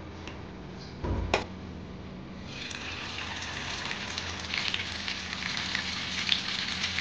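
Battered prawns sizzling in shallow hot oil in a frying pan, a dense hiss with fine crackle that starts about two and a half seconds in. Before it there is a light click and a sharp knock a little over a second in.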